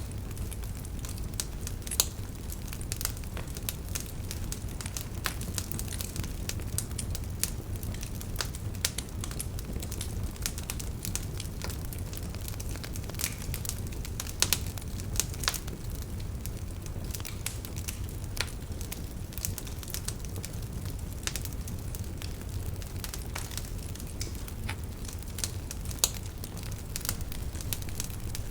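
Wood fire burning in a fireplace and crackling: irregular sharp pops and snaps, a few of them louder, over a steady low rumble of the flames.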